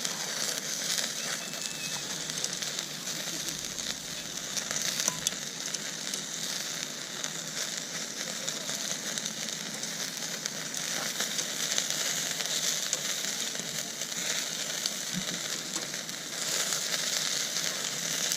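Meat sizzling as it cooks over a campfire: a steady hiss with scattered small pops, a little louder near the end.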